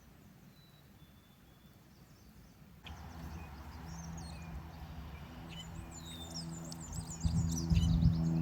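Faint, near-quiet outdoor ambience with a thin whistled note. About three seconds in, small birds start chirping and twittering busily over a steady low drone, growing louder toward the end.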